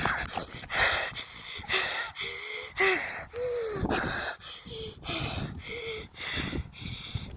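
A child panting hard after running, quick loud breaths in and out, some with a short voiced gasp.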